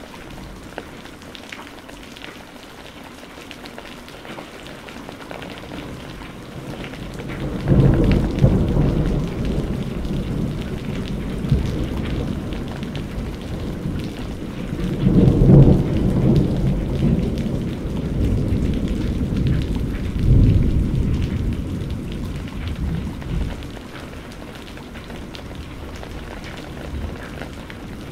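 Steady rain falling, with a long rolling thunder rumble that comes in about a quarter of the way through, swells twice more, and dies away near the end.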